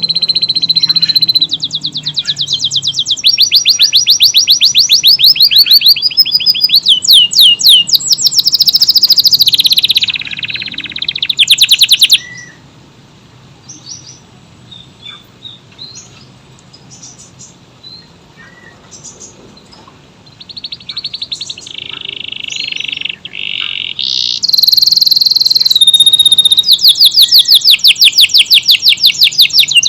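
Canary singing long, fast, rolling trills, one tight run after another. About twelve seconds in it breaks off for several seconds with only a few faint chirps, then starts up again with more rapid trills.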